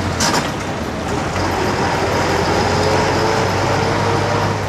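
Road traffic: a motor vehicle engine running with a steady low hum over a continuous rush of road noise. There is one short sharp click about a quarter second in.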